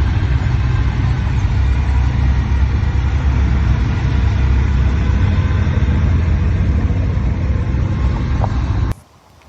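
Steady rumble of a motor vehicle's engine and road noise, heavy in the low end, which cuts off suddenly about nine seconds in.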